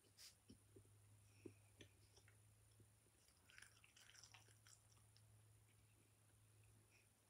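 Faint close-up chewing of chocolate: soft scattered mouth clicks and smacks, over a steady low hum.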